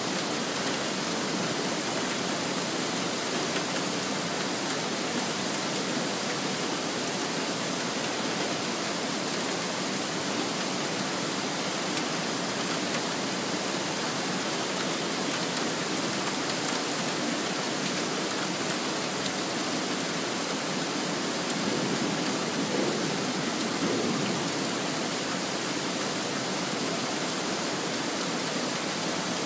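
Heavy rain pouring steadily in a thunderstorm, an even rushing hiss that swells a little about three quarters of the way through.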